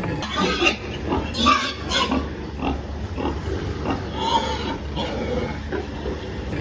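Piglets squealing and grunting in short, irregular calls, with the loudest squeals in the first two seconds and again just past four seconds, over a steady low hum.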